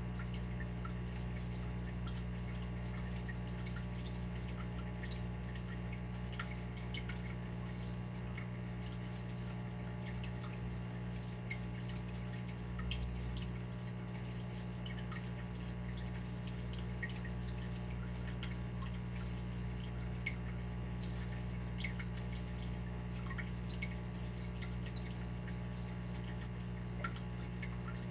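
Water dripping in irregular small drops over a steady low hum.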